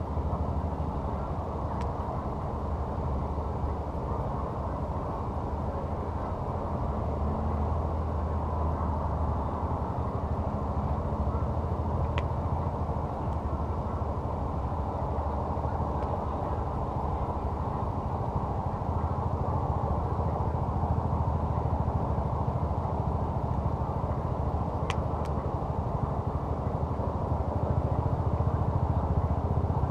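Campfire burning, with a few isolated sharp pops over a steady low rumble.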